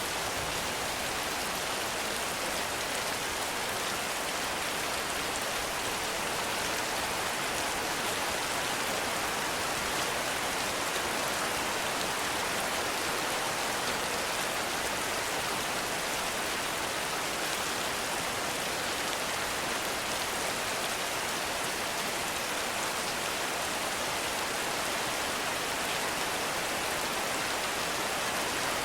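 Heavy rain falling steadily, a dense even hiss of many drops with no thunder or other sounds.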